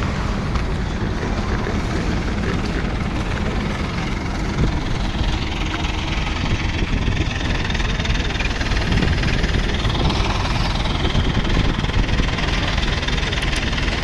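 Mahindra Yuvo Tech Plus 575 tractor's diesel engine running steadily.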